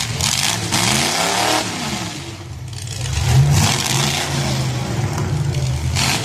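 Full-size street stock demolition derby cars' engines revving hard, their pitch rising and falling, with several loud surges of noise.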